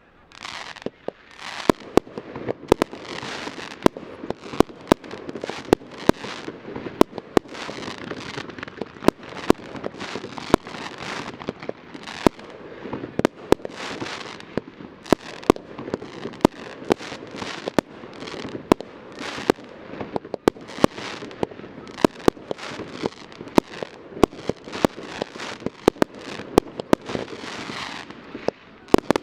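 Aerial fireworks shells bursting in quick succession, a sharp bang more than once a second, over continuous crackling.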